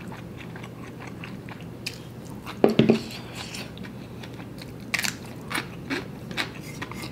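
Close-miked chewing of noodles: wet mouth clicks and smacks, with a louder knock about three seconds in.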